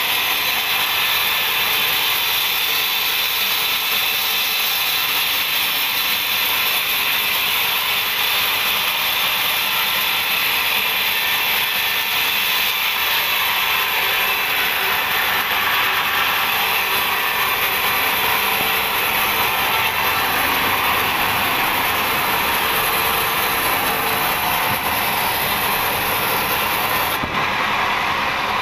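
Sawmill band saw running steadily through a teak log, sawing it into thick boards.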